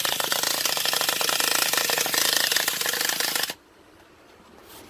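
Traxxas Revo 3.3 nitro engine being spun over by its starter in a rapid, buzzing chatter that does not catch and stops abruptly about three and a half seconds in. The engine fails to fire; the owner thinks it sounds like it has no compression.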